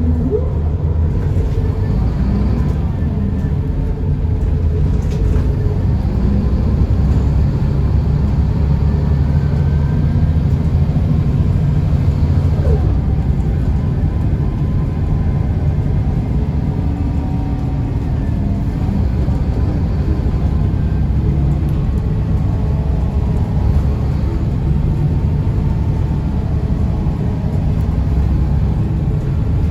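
Scania L94UB bus under way: its DSC9 nine-litre six-cylinder diesel engine and ZF 5HP590 automatic gearbox running with a steady low rumble.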